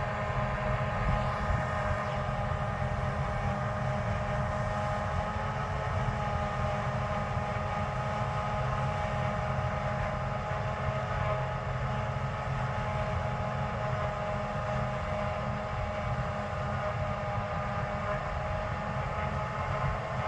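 Large harvest machinery running steadily: a deep engine drone with several steady, high whining tones over it.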